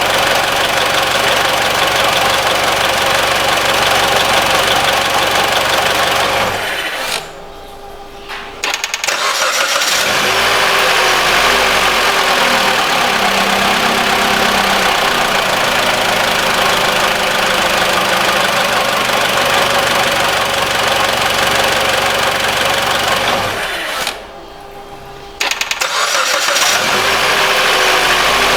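Mitsubishi ASX 1.8 petrol engine idling, switched off, then cranked by the starter and restarted, twice. It is shut off about seven seconds in and restarted after a brief quiet, and the same happens again a few seconds before the end. This is a repeated stop-start test for an intermittent rattle from the belt-drive rollers or alternator pulley.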